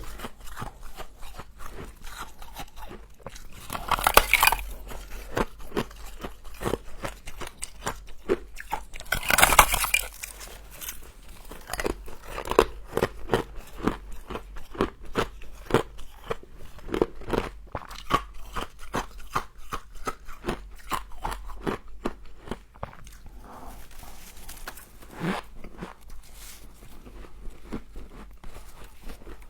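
Close-miked biting and chewing of frost and ice: many crisp crunches throughout, with two louder bites about four seconds in and again near ten seconds.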